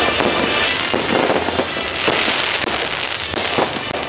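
Fireworks display: aerial shells bursting in a dense, continuous run of crackles and bangs, with a few louder reports standing out.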